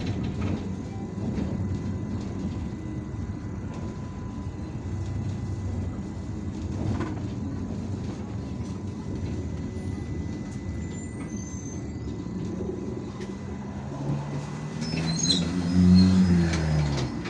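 IVECO Urbanway 18M articulated city bus under way, heard from inside: a steady low rumble of engine and road. Near the end the engine note rises in pitch as the bus accelerates, then falls away.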